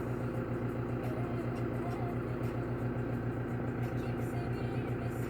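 New Holland tractor's diesel engine running steadily, a low, evenly pulsing hum.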